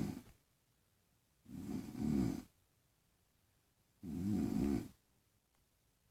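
A person snoring: rasping snores about a second long, coming regularly every two and a half seconds or so.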